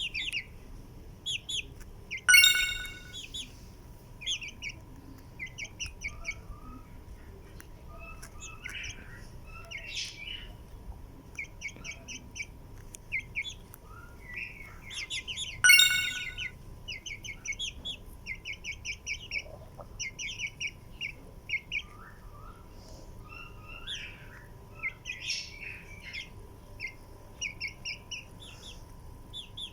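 Baby chicks peeping: quick runs of short, high chirps throughout, with two loud peeps, one a couple of seconds in and one about halfway. A faint steady whine runs underneath.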